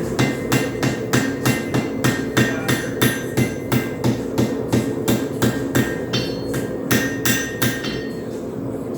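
Hand hammer striking hot railroad-spike steel on an anvil in a steady rhythm of about three blows a second, each with a short metallic ring, stopping near the end. A propane forge runs underneath.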